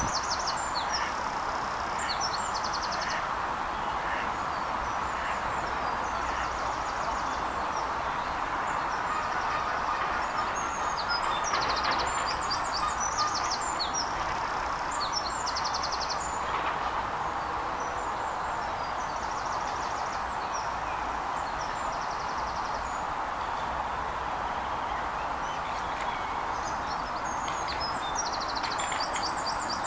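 Small songbirds singing, with repeated high trills and quick runs of notes, over a steady background hiss of outdoor noise.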